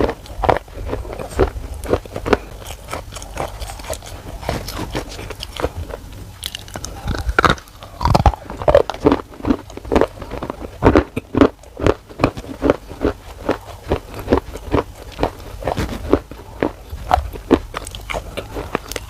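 Biting and chewing of hard, crunchy black cubes close to the microphone, a continuous run of sharp crunches about two or three a second.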